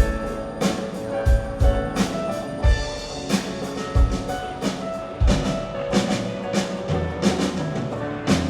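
Live band playing an instrumental passage of a pop-rock song: a drum kit's kick drum and cymbal hits keep a steady beat under sustained chords. It closes on a final hit shortly before the end, which then rings out and fades.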